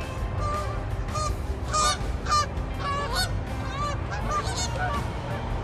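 A flock of geese honking, with short calls from several birds following each other and overlapping, over a steady low rumble.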